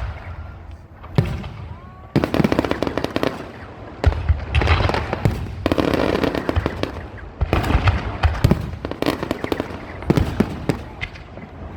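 Aerial fireworks going off in quick succession, with waves of rapid crackling pops and low booms.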